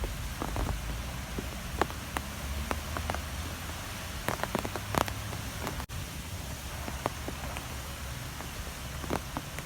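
Strong wind blowing steadily with a low rumble, with scattered sharp ticks and taps throughout and a brief dropout about halfway through.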